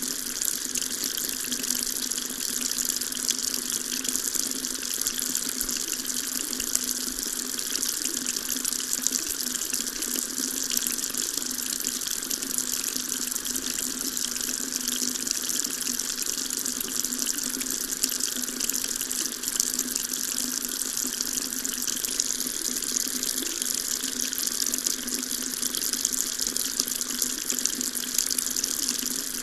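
Water tap running steadily, its stream splashing into a sink in an even, unbroken hiss.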